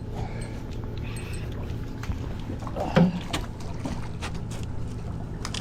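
A hooked sheepshead being netted alongside a small boat: scattered knocks, clicks and light splashes from the net and fish, over a steady low hum, with a short vocal sound about three seconds in.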